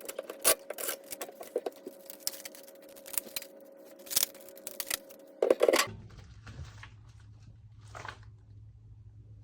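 Packaging being handled and torn open: a dense run of irregular crinkles and clicks with a faint steady tone under them, ending in a louder crackle about six seconds in, then a few quieter rustles.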